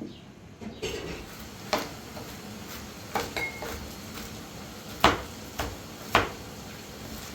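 Hard objects being handled, with a string of separate sharp clinks and knocks, the two loudest about a second apart late on.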